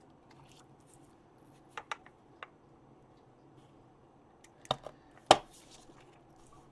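A few sharp clicks and taps of craft tools and paper being handled on a work table, the loudest a little past five seconds in.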